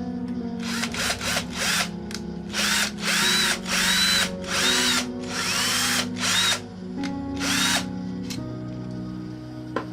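Electric drill motor run in about ten short bursts, each spinning up and winding back down, over background music.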